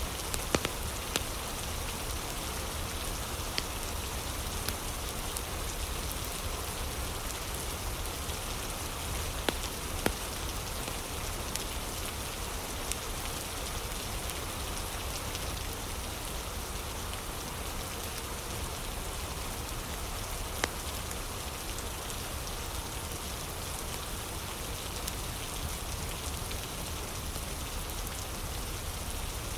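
Steady rain ambience, an even hiss of falling rain, with a few sharp pops of a crackling fire scattered through it, clustered near the start and around ten and twenty seconds in.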